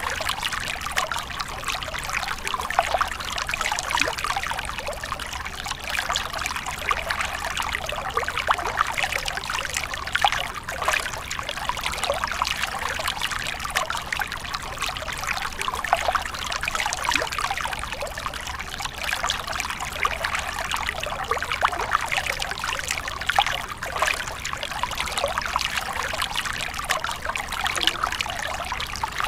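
Running water trickling and splashing steadily and continuously, a dense patter of small splashes with no pauses.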